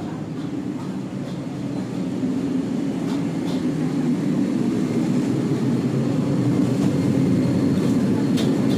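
Low, steady rumble of a train, growing gradually louder.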